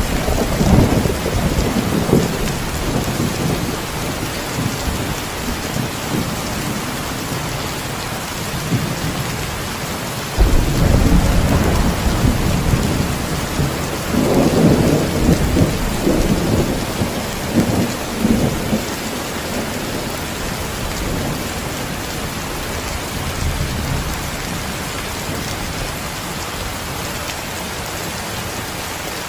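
Steady heavy rain with rolling thunder. Low rumbles come and go early on; a sudden louder crack-and-rumble about ten seconds in rolls on for several seconds, then more rumbling follows before it fades to just the rain.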